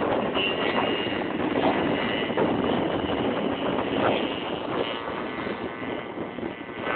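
Motorcycle engines running steadily, a dense continuous engine noise with no single event standing out.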